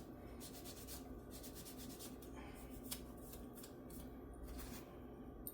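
Quick back-and-forth rubbing strokes in short runs, an abrasive worked by hand on the guitar's frets.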